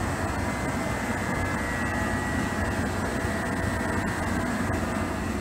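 Seibu Railway electric commuter train close by, giving off a steady rumble and hum with a faint thin high tone above it.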